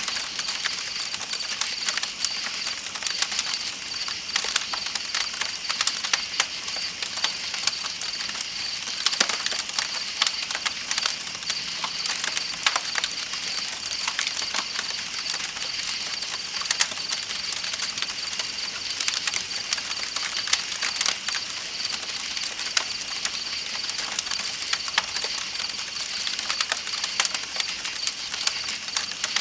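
Campfire crackling with frequent sharp pops, over a steady high chirring of night insects and the constant rush of a flowing river.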